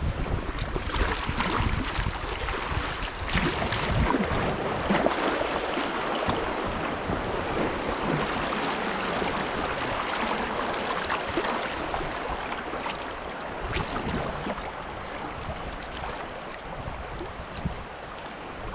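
Shallow, rocky river riffle rushing around a kayak, with scattered splashes from paddle strokes. The water noise is loudest in the first few seconds and eases off toward the end.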